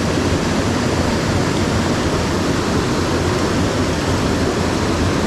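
Steady, loud rush of fast-flowing mountain-stream water.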